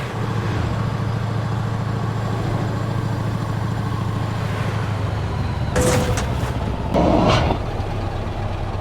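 Scania V8 truck engine idling steadily with a low, even note. Two short bursts of hiss-like noise come through about six and seven seconds in.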